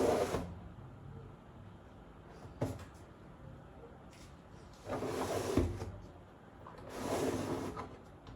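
Food containers and packets being put back onto fridge shelves: a few short sliding, rustling handling sounds, with a small click and a sharper knock in between.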